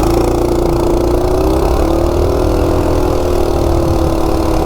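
Coleman 196cc single-cylinder minibike engine, governors removed and running on a Coso carburettor, pulling hard at full throttle in a 0 to 30 mph run; its pitch climbs a little over the first two seconds and then holds steady.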